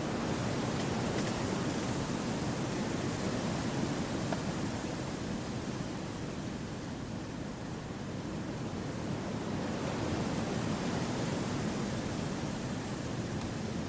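Wind blowing through forest trees: a steady rushing that swells and eases gently, dipping a little about halfway through before rising again.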